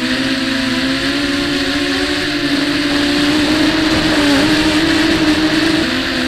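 Small racing quadcopter's four brushless motors and 5030 propellers whining, heard from onboard, the pitch wavering with throttle, going up and a little louder from about three seconds in and dropping shortly before the end, over a rushing hiss of strong wind.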